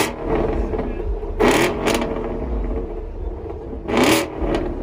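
Car engine revved in short, sharp blips: three quick bursts, each rising fast in pitch, about one and a half, two and four seconds in. A steady engine rumble runs underneath.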